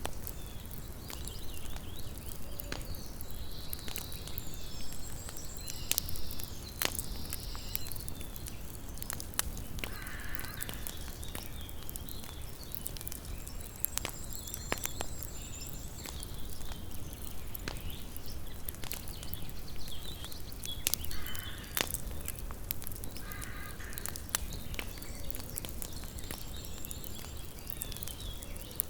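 Small wood campfire crackling, with frequent sharp pops and snaps over a soft steady hiss. A bird calls a few times in the background, mostly in the second half.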